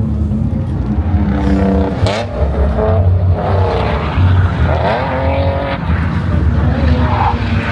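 A car engine revving hard, its pitch climbing and dropping several times in quick succession.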